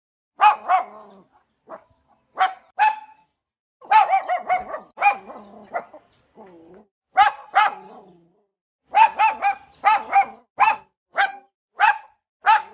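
A dog barking over and over in short, high-pitched barks, some single and some in quick runs of two or three.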